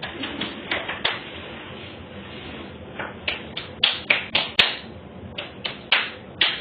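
Irregular sharp tapping clicks on a hard surface, a few at first, then quick runs of about three taps a second from about three seconds in.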